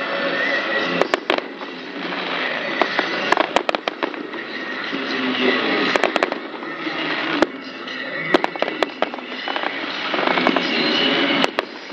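Fireworks display: a continuous dense crackle and fizz with many sharp bangs from bursting shells scattered throughout.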